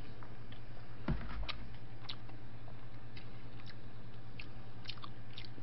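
Close-miked chewing of a mouthful of spaghetti, with scattered wet mouth clicks and lip smacks and a low thump about a second in, over a steady low hum.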